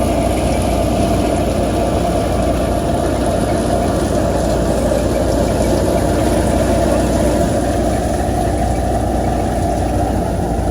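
Wheat threshing machine running steadily, a continuous loud mechanical din.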